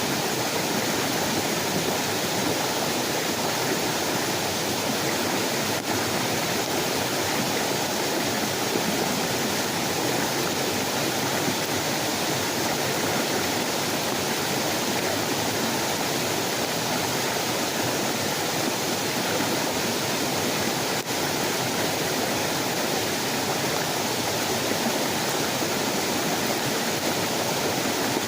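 Steady, even rushing noise of water, unbroken, with a faint click about six seconds in and another about twenty-one seconds in.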